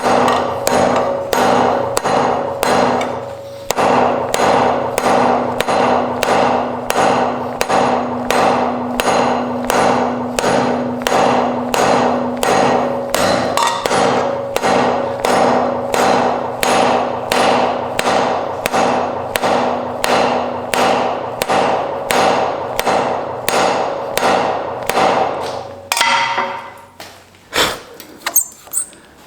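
Forging hammer blows on iron on an anvil, a steady run of about two strikes a second with a ringing tone under them. There is a short break a little after three seconds in; the hammering stops a few seconds before the end, followed by a few scattered knocks.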